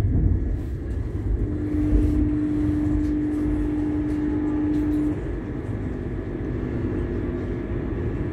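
Passenger train running, heard from inside the carriage: a steady low rumble and hiss. A single steady tone sounds over it from about one and a half seconds in until about five seconds in.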